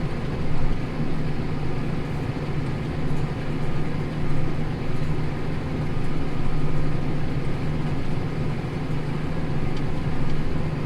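Tractor engine running steadily under load while pulling a plough through hard wheat stubble, an even low drone.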